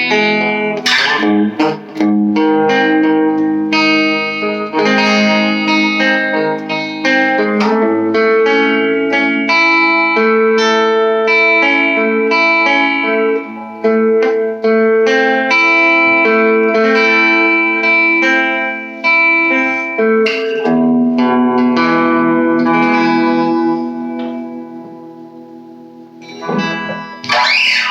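Electric guitar playing sustained chords through a small all-tube amp with a fairly clean tone, the chords changing every second or two. The last chord rings out and fades away about 24 seconds in, and a short scratchy burst follows near the end.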